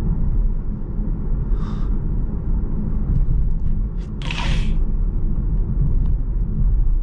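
Road and tyre rumble inside a car coasting down a long hill, steady and low. About four seconds in comes one brief hiss.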